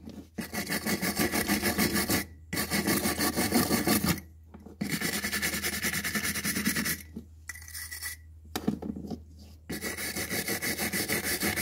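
Small steel wire brush scrubbed rapidly back and forth over a motorcycle disc brake pad to clean crusted residue off its surface. It comes in several bouts of quick strokes with short pauses, the longest pause about seven seconds in.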